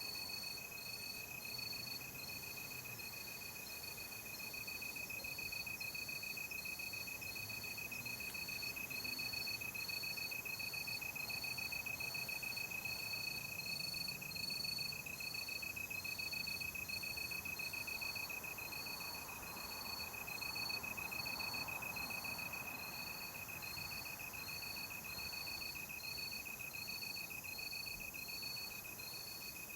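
Night insects, crickets, calling without pause: one steady high trill, with a second insect chirping evenly a little more than once a second over a soft background hiss.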